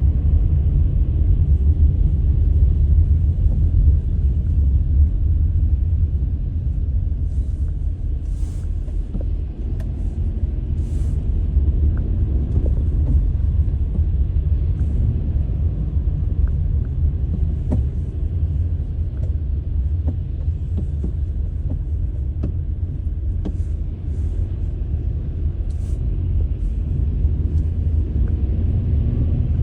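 Wind buffeting the microphone: a steady low rumble that swells and eases a little.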